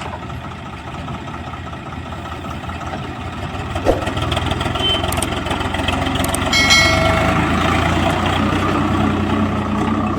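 Diesel engines of a backhoe loader and tractors running steadily, growing louder about four seconds in. A single knock comes about four seconds in, and a brief high-pitched tone follows near seven seconds.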